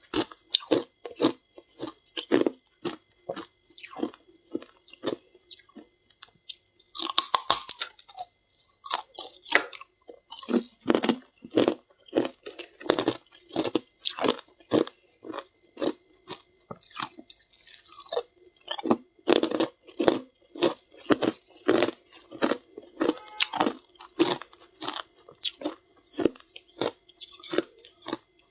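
Close-up crunching of a person chewing mouthfuls of frozen frost ice, a quick run of crisp bites about two a second, with a short pause about six seconds in.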